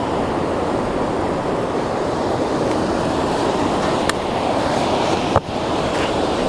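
Ocean surf washing steadily on the beach, with a faint click about four seconds in and a sharper click about five and a half seconds in.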